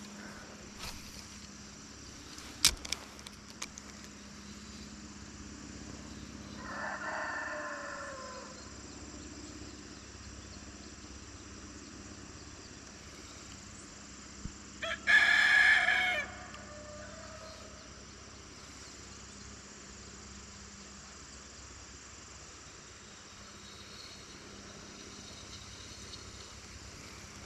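A rooster crowing twice, a fainter call about seven seconds in and a louder one about fifteen seconds in, each lasting a second or two.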